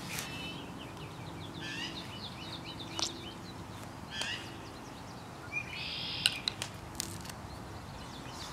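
Small birds chirping in quick runs of short notes, with a few sharp clicks of a knife cutting a lemon on a concrete surface; the loudest click comes about two-thirds of the way through.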